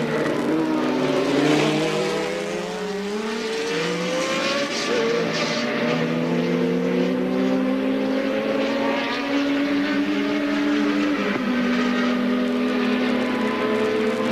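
Several early-1980s Formula One cars racing at once, their engines running at high revs, with the pitch falling and rising as they shift gears and pass.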